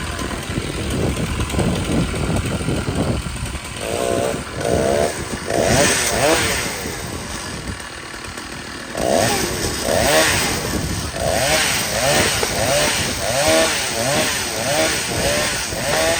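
Two-stroke chainsaw running, its revs rising and falling over and over, about once a second in the second half.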